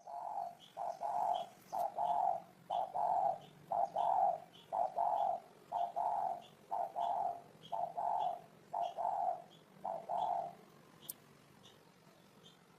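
Spotted dove cooing: a fast, even run of about sixteen short coos that stops about ten seconds in. A faint high chirp repeats about twice a second behind it.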